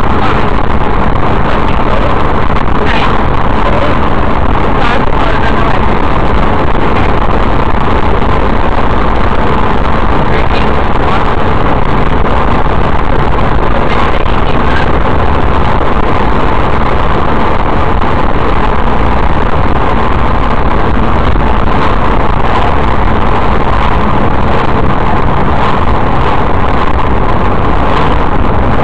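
Steady engine and road noise of a car driving, heard from inside the car by the dashcam.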